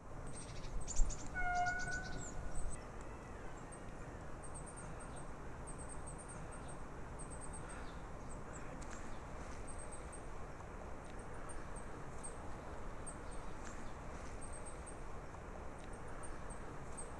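Outdoor ambience over a steady low rumble, with small birds chirping in short high bursts again and again. About a second and a half in there is a short pitched call, just after a few sharp knocks.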